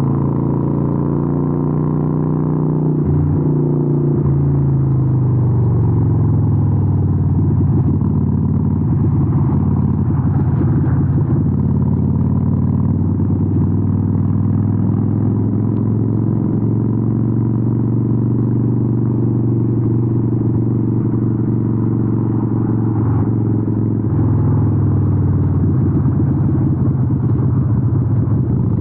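Harley-Davidson 883N's air-cooled V-twin running through Vance & Hines exhausts while riding. The engine note drops about 3 seconds in, holds steady, then changes again near the end.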